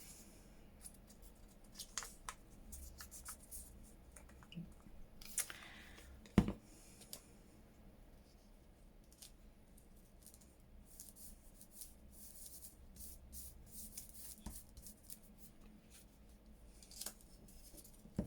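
Paper crafting at a table: scattered rustles, snips and small clicks of paper and tools being handled, with one sharp knock about six seconds in.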